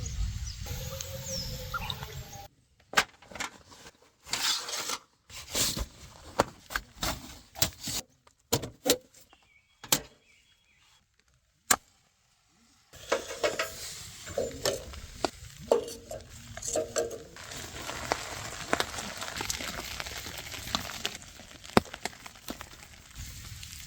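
Camp cookware being handled: metal pots and utensils clinking and knocking in short separate strikes, then a steady hiss with many small clinks over it.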